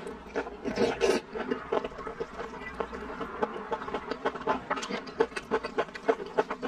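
Close-miked chewing of soft braised napa cabbage and sweet potato glass noodles: a quick run of wet mouth smacks and clicks, several a second.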